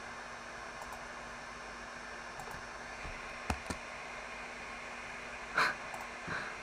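Steady hiss of room and microphone noise. Two quick clicks come about three and a half seconds in, and a brief louder sound follows near the end, with a softer one just after it.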